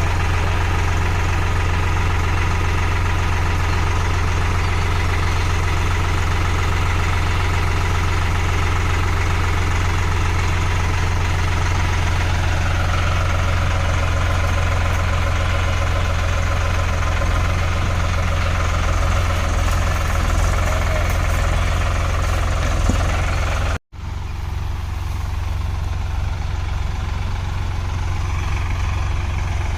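Solis 5015 tractor's diesel engine idling with a steady low hum. It breaks off for an instant about three-quarters of the way through, at an edit, then runs on.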